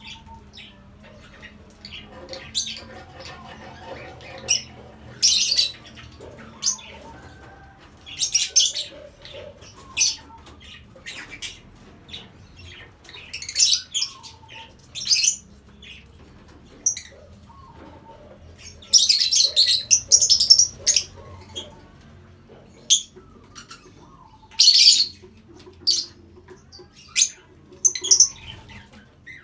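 Lovebirds calling in short, shrill chirps and squawks at irregular intervals, with a denser run of calls about two-thirds of the way through.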